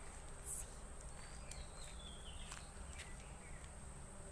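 Birds calling outdoors: a few thin whistled notes, each falling in pitch, about a second in and again near the middle, over a steady high-pitched tone and low background rumble.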